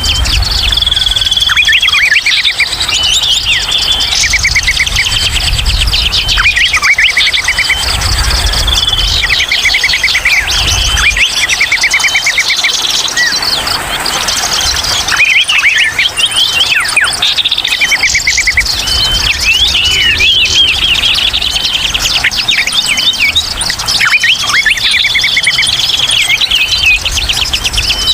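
A dense, noisy chatter of many small songbirds calling at once, with overlapping chirps, whistles and fast rattling trills, of the kind played as a lure to draw wild birds in.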